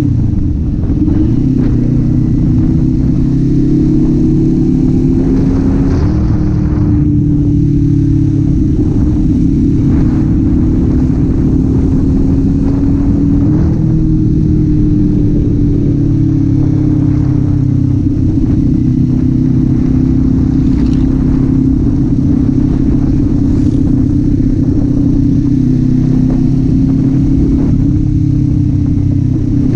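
Kawasaki Z400's parallel-twin engine running on the move at fairly steady revs, its pitch drifting gently up and down with small throttle changes.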